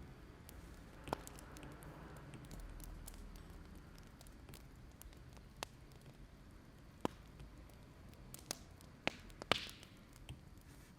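Wood fire crackling: scattered sharp pops and clicks at irregular intervals over a faint hiss, with a small flurry of louder pops near the end.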